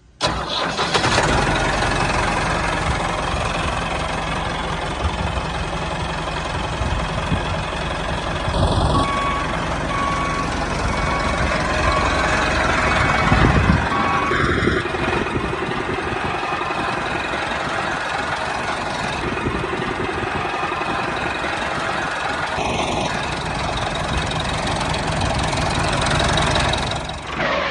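Homemade mini tractor running steadily with an engine-like sound. A series of short, even beeps, like reversing beeps, comes partway through.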